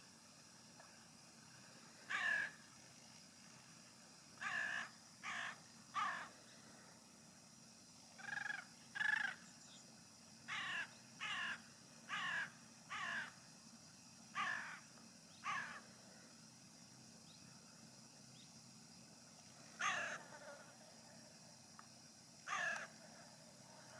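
A bird calling repeatedly: about fourteen short calls, singly and in quick pairs or threes, with longer gaps between the groups.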